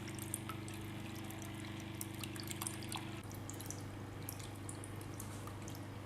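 Water trickling and dripping with small scattered splashes from a homemade bamboo water fountain, over a low steady hum.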